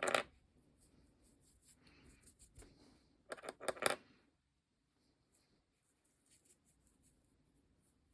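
Small hard craft objects being handled and set down on a work table: a sharp click at the start, then a quick rattle of several clicks about three seconds in, with soft rustling between.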